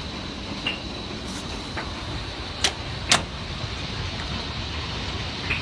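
Hailstorm pelting down: a steady hiss of falling hail, with sharp cracks of hailstones striking hard surfaces. Two loud hits come close together about halfway through.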